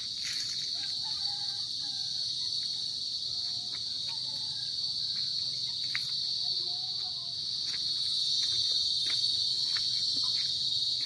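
Chorus of insects in the mangroves: a steady high-pitched shrill that never lets up, swelling a little louder over the second half.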